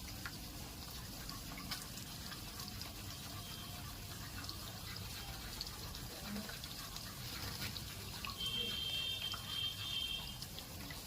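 Running water with scattered faint drips and taps, the kind of water parrots bathe in. From about eight and a half seconds in, a high steady tone sounds for about a second and a half.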